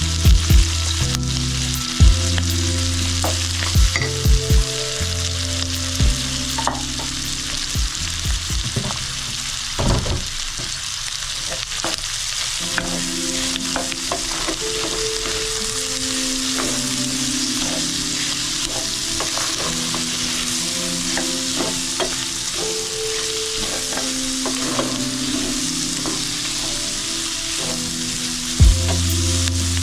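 Boiled tripe, onions and garlic sizzling as they are stir-fried in a stainless steel pan. A wooden spoon stirs them, with short knocks and scrapes against the pan every second or two.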